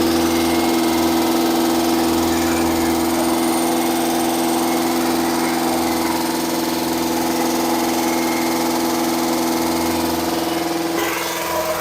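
Rebuilt engine running steadily at speed during its new camshaft's break-in run, its pitch dropping slightly near the end.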